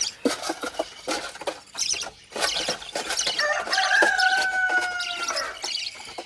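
Chickens clucking among many short clicks, with one long chicken call held for about two seconds near the middle that slides slightly down in pitch.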